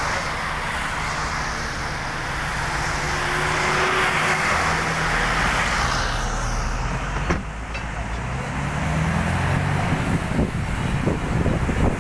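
A moving vehicle heard from inside: steady road hiss over the engine's drone, the engine note growing stronger about halfway and climbing in pitch near the end, with a single sharp knock in between.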